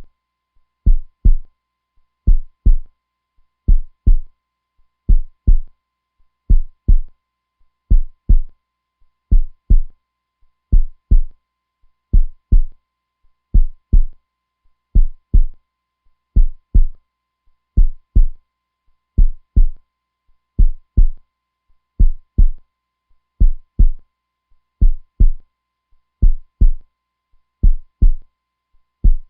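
Slow, steady heartbeat: deep lub-dub double thumps, a little over one pair every second and a half, even and unchanging.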